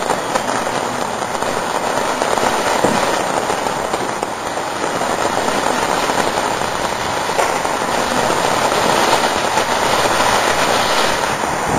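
A consumer firework called "The Great Wall" burning with a steady hiss and dense crackle, without separate loud bangs.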